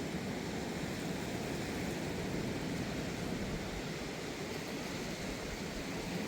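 Steady rush of fast-flowing river water, an even noise without breaks.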